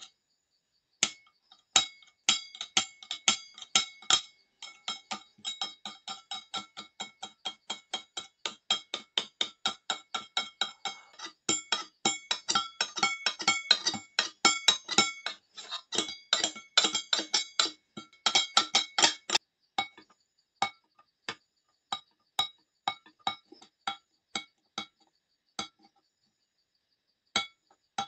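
A metal blade scraping the base of an upturned stainless steel cup in quick short strokes, about three a second, each stroke setting the cup ringing with a bright metallic clink. The strokes thin out to scattered single scrapes in the last third.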